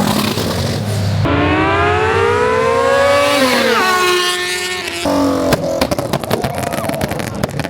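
A car engine revving: the pitch climbs slowly, holds, then drops away about four seconds in. This is followed by a rapid run of sharp cracks and pops.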